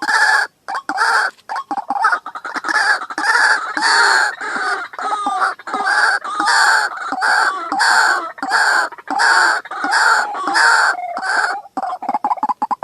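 White-breasted waterhen calling: a long run of loud, harsh repeated notes, about two a second, that breaks off shortly before the end into a few quicker, fainter notes.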